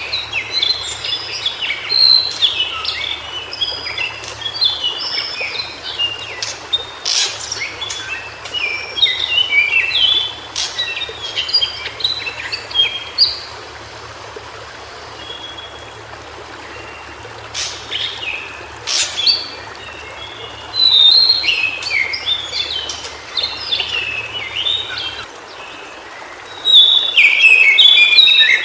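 White-browed shortwing singing: repeated bursts of rapid, jumbled, high warbling notes with quieter gaps between them. The loudest bursts come about 21 seconds in and near the end.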